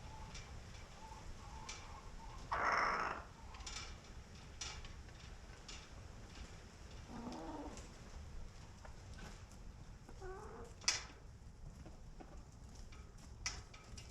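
Chickens clucking and calling, a few separate calls. A loud harsh noise comes about three seconds in, and sharp clicks are scattered through.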